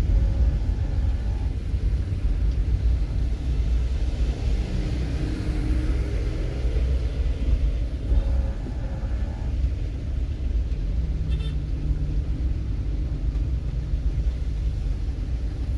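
Motor vehicle running on a road: a steady low rumble, with engine notes rising and falling near the start and again about halfway through.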